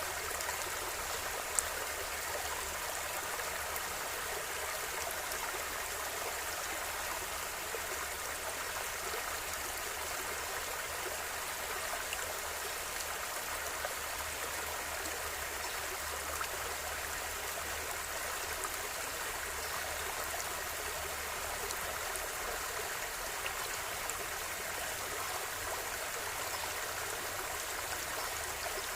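River water flowing steadily, an even, continuous rushing and gurgling that does not change. A single sharp tick is heard about one and a half seconds in.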